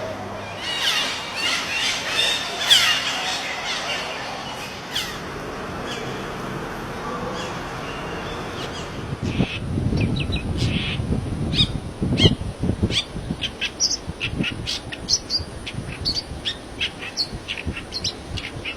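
Birds calling outdoors: curving, gliding calls for the first few seconds, then from about nine seconds in a long run of short, high chirps, about three a second. A low rumble sits under the chirps for a few seconds around the middle.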